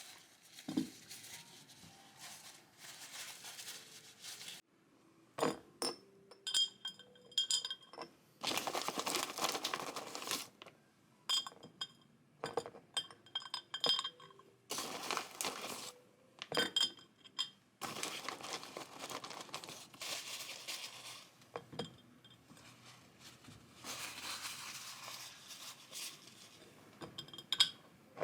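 Glass jar clinking as things are dropped and set into it while making green plum syrup, with stretches of pouring and rustling between the clinks.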